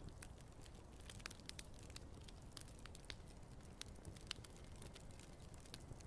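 Wood campfire crackling softly, with many small, irregular sharp pops and snaps over a low, steady rumble.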